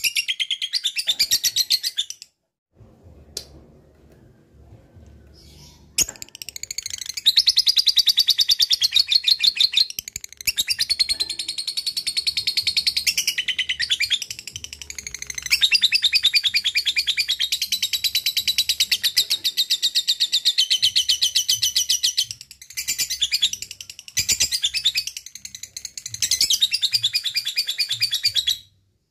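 Lovebird singing its long 'ngekek' chatter: runs of rapid, high, rattling notes that go on for several seconds at a stretch, with a pause of a few seconds near the start and short breaks between runs.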